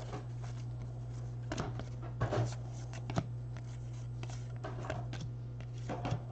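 Baseball trading cards being handled: faint rustles, slides and light clicks of cards and packaging, a few a second at most, over a steady low hum.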